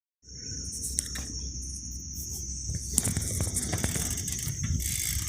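Wind and handling rumble on the microphone of a moving bicycle, with a steady high-pitched insect buzz and a few sharp clicks.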